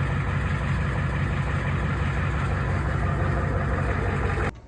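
Pickup truck engine idling steadily, then cutting off abruptly near the end.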